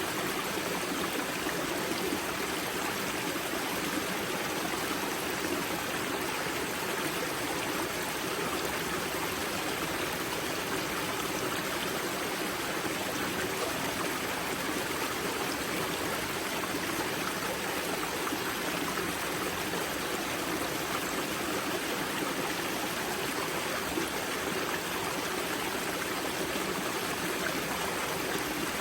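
Water of a mountain river's spring source rushing and splashing over rocks, a steady, unbroken flowing sound.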